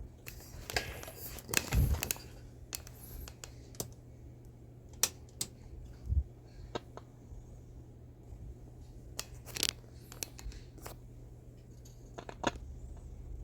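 Scattered clicks, taps and scraping from small tools and parts being handled, with a few louder knocks, over a steady low hum.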